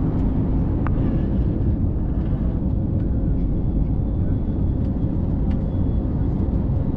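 Steady low rumble of an IndiGo airliner, with a faint steady hum and a few light clicks.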